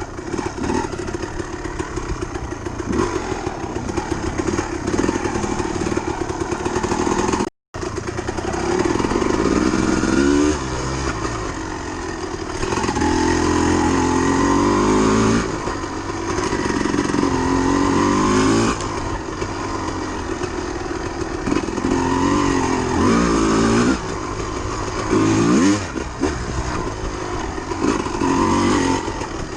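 Dirt bike engine being ridden, revving up and falling back again and again as the rider works the throttle. The sound cuts out completely for an instant about seven seconds in.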